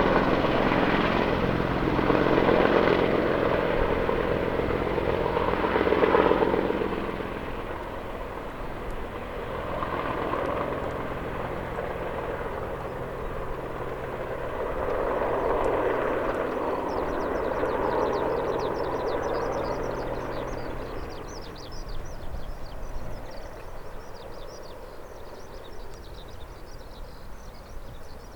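AH-64D Apache attack helicopters flying away, the drone of their rotors and twin turboshaft engines swelling and sinking a few times as it fades. Faint high chirping comes in during the last third.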